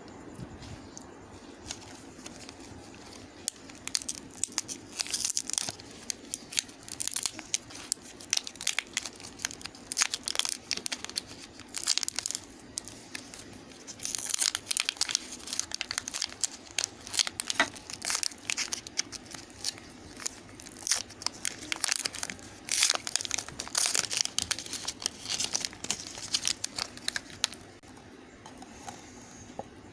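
Rapid, irregular crackling and crinkling from a bar of soap being worked by hand, starting about three seconds in and easing off near the end.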